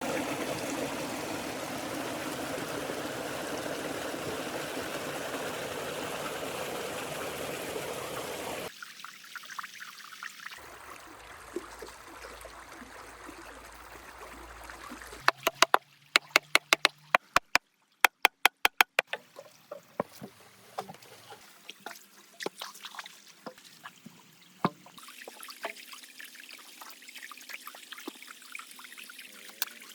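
Water running steadily for about the first nine seconds, then cutting off abruptly to a quieter trickle. A quick run of sharp clicks follows about halfway through, with scattered clicks and ticks after it.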